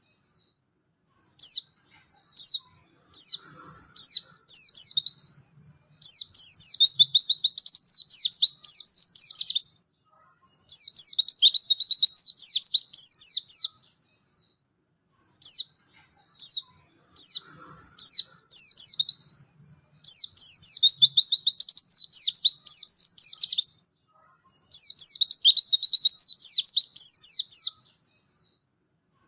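White-eye (pleci) in full song: rapid, high chirping phrases lasting a few seconds each, separated by short pauses. The same sequence repeats about every 15 seconds, a looped recording.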